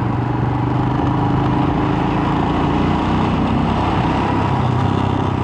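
Royal Enfield Himalayan's single-cylinder engine running steadily as the motorcycle cruises along, under a steady rush of wind and road noise.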